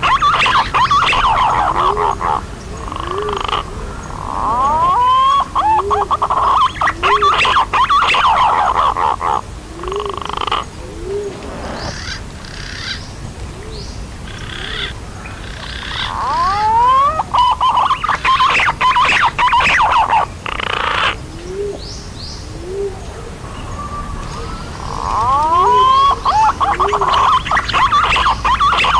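Recorded calls of punai (green pigeons): waves of many wavering, rising whistles lasting a few seconds each, with quieter gaps between, over a short low note that repeats. It is a bird-trapping lure call.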